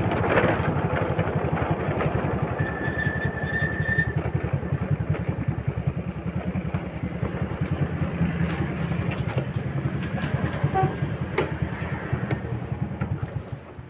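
Honda Supra's single-cylinder four-stroke engine running at low speed with a fast, even putter as the motorcycle rolls in and slows to a stop. A short high tone sounds about three seconds in. The engine cuts off at the very end.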